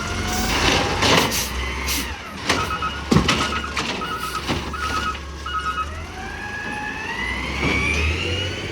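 Peterbilt 320 garbage truck's diesel engine revving, its pitch falling and then climbing steeply near the end. Short hisses of air and a few knocks come in the first half, and a warning beeper sounds about five times in the middle.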